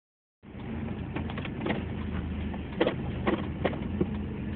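Car engine idling steadily with a low hum, with several short clicks and knocks over it.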